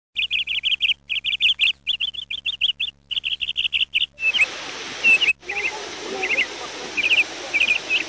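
Birds chirping in rapid clusters of quick notes. About four seconds in this gives way to a steady hiss with scattered short bird chirps, typical of rainforest ambience.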